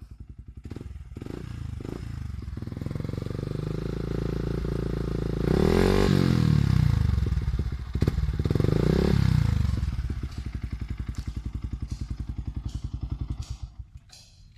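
Yamaha Vixion single-cylinder motorcycle engine through a 'standard racing' aftermarket exhaust: idling with an even pulse, revved up and back down twice in the middle, then settling back to idle before the sound drops away near the end.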